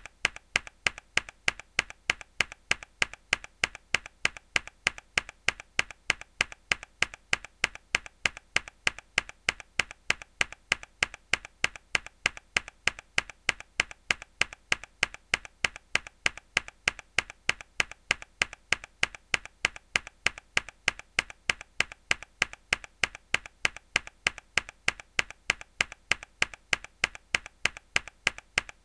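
A single mechanical keyboard key pressed hard over and over at an even pace, about two to three clicks a second, each click followed by a softer second click.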